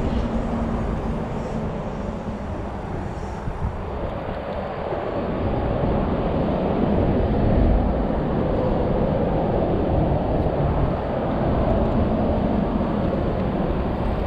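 Creek water rushing into a pool: a steady noise that swells a few seconds in and holds.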